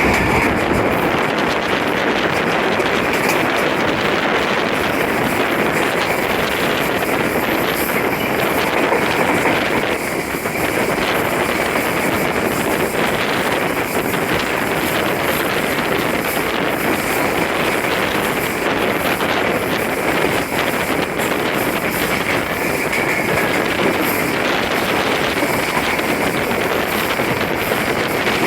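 Steady, loud running noise of a passenger train, with wind buffeting the microphone.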